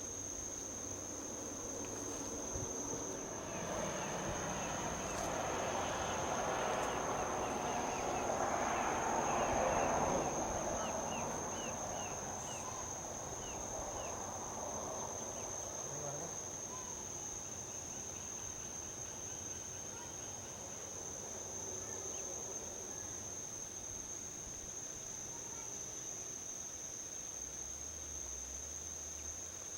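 Crickets trilling in one steady high-pitched note. A vehicle passes on the highway, its tyre and engine noise building for several seconds, peaking about ten seconds in and fading away by the middle.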